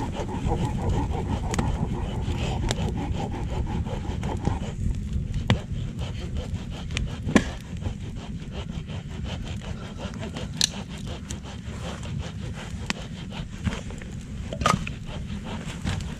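Hand saw cutting through wood with a continuous scraping, broken by a few sharp clicks.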